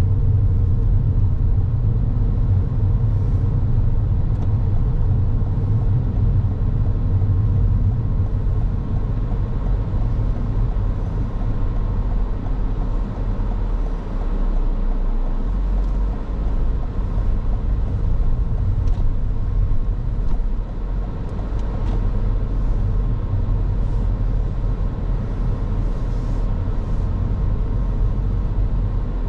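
Car driving along a road: steady low rumble of engine and tyre noise.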